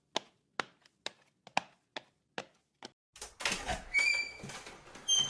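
Footsteps on a hard floor, about two steps a second, then outdoor ambience with a bird chirping twice.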